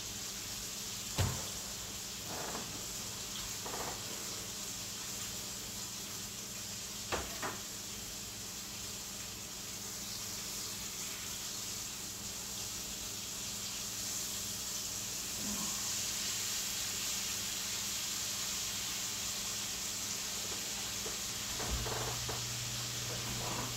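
Food frying in a skillet on the stove: a steady sizzle that gets a little stronger partway through, with a few short clicks and knocks from handling utensils and cookware, one knock coming near the end.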